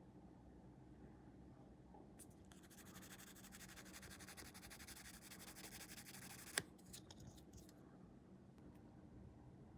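Rapid, fine scratching on a small plastic model part, worked by hand for about four seconds, then a single sharp click, followed by a few light clicks.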